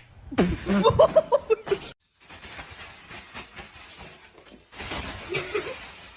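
A person laughing in quick bursts for a second or two, followed by a few seconds of rustling noise with many small clicks.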